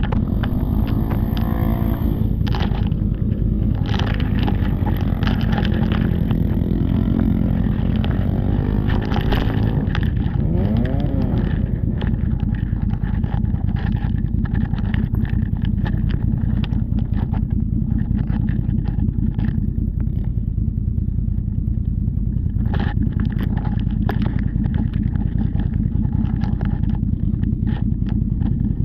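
Off-road vehicle engine running steadily, revving up and down near the start and again about ten seconds in, with knocks and rattles from the vehicle bouncing over rough ground.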